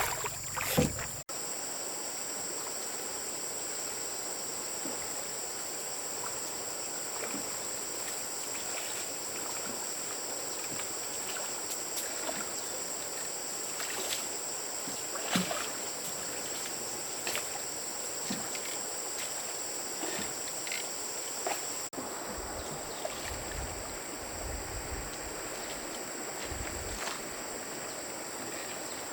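A steady, high insect chirring in the background, with scattered short clicks and knocks over it.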